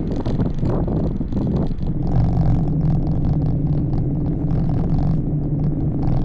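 Wind rumbling on an action-camera microphone during a bike ride. A motor vehicle's engine hums steadily at one pitch from about two seconds in and stops at about five seconds.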